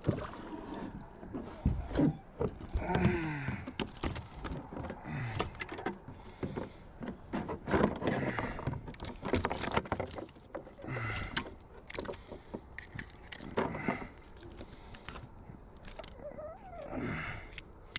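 Irregular clicks, knocks and rattles of fishing gear being handled in a kayak, with a few short higher-pitched sounds among them.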